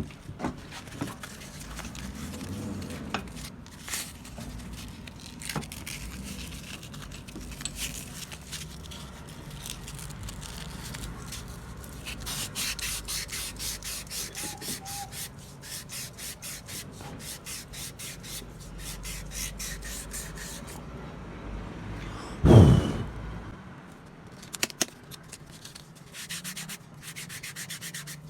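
Hand sanding of a starter motor part, quick back-and-forth strokes in a steady rhythm through the middle stretch. One loud knock about three-quarters of the way through.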